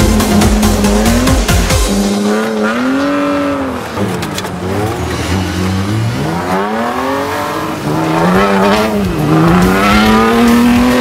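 Stock car engines revving up and dropping off again and again, the pitch rising and falling every second or so as several cars race.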